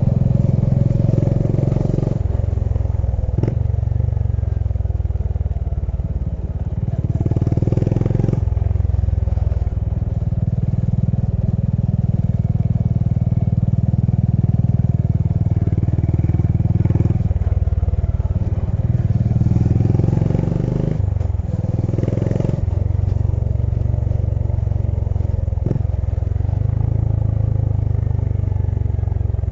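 Honda H'ness CB350's air-cooled single-cylinder engine running under way on a ride, heard from the rider's position. Its low note shifts several times, around 2, 8 and 22 seconds in, as the revs change.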